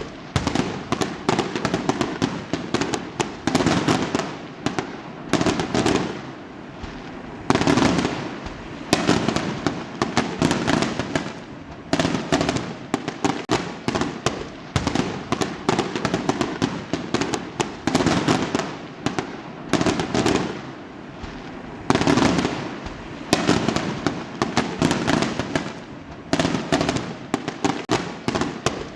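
Fireworks going off in rapid succession: a continuous crackle of small pops, with louder clusters of bangs every couple of seconds.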